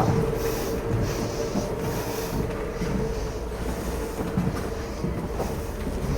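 Steady low rumble with a constant faint hum tone and a few soft rustles: background noise inside a stone room.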